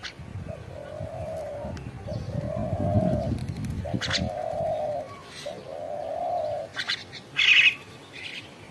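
A dove cooing: four even, low, slightly arched coos of about a second each. A short, loud, high chirp comes near the end.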